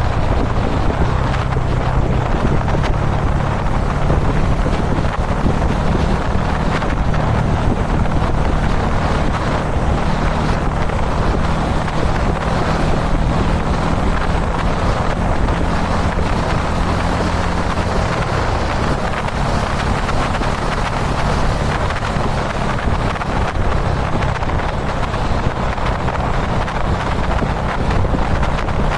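Kawasaki Dominar 400 UG2's single-cylinder engine running steadily at expressway cruising speed, its note dipping slightly a little past halfway. Heavy wind rushes over the microphone.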